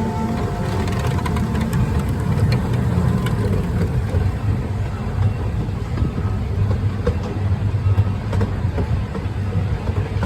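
Small amusement-park train rolling along its track, heard from the rear car: a steady low rumble with scattered clicks and rattles from the wheels and cars.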